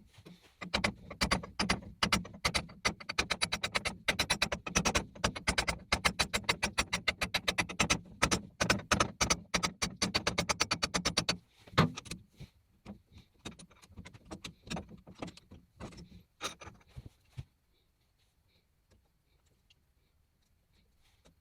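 Sheldon metal lathe running with a fast, loud clatter over a steady hum. About eleven seconds in, the hum stops and the clatter slows to scattered clicks that die away, as if the machine were coasting to a stop.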